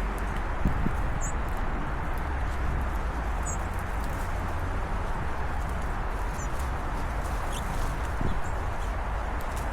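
Steady outdoor hiss with small wild birds giving brief high chirps every couple of seconds. There are two soft knocks, one about half a second in and one near the end.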